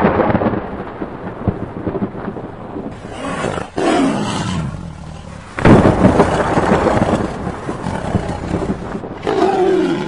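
Loud rush of wind on the microphone over the engine of an open-cockpit powered parachute in flight, surging suddenly about halfway through.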